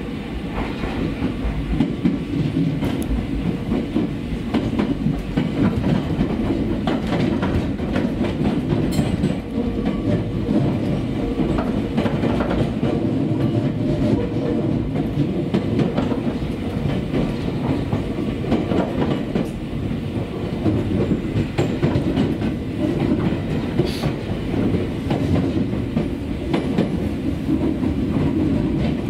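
Running sound inside a Nankai 9000-series electric train's motor car, which has been refitted with VVVF inverter control. A steady low rumble from the wheels and rails, with scattered clicks as the wheels pass over rail joints.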